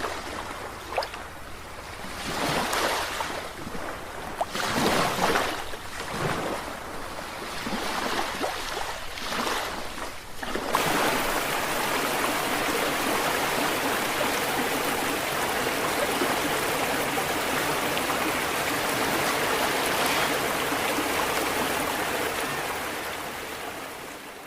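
Sea water washing in uneven surges. About ten seconds in it cuts abruptly to a steady, dense rush of water, which fades out near the end.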